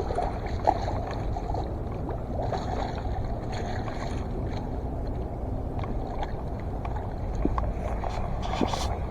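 Water sloshing and splashing at the shoreline, with a steady low wind rumble on the microphone and scattered small splashes.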